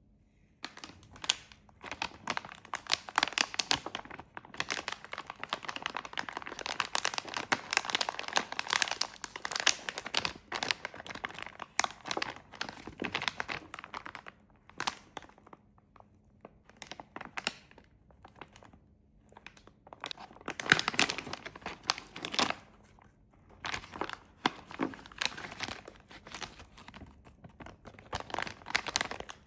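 Snack wrappers being crinkled and torn open by hand, in long stretches of dense crackling with a quieter lull in the middle and a loud burst of tearing a little after twenty seconds in.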